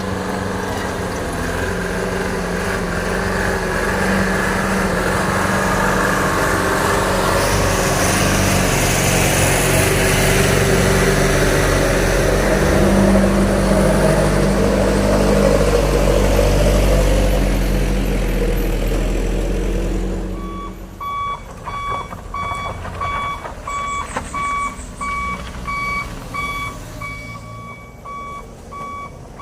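A truck's diesel engine running loud for about twenty seconds, then dropping away. A truck's reversing alarm then beeps steadily, about two beeps a second.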